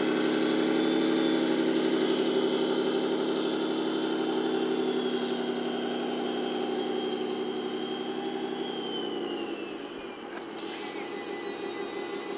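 Electronic engine sound from an RC model truck's sound module, a V8 truck engine idling steadily, then falling in pitch and dying away about ten seconds in. A click follows, then a thin, steady high whine.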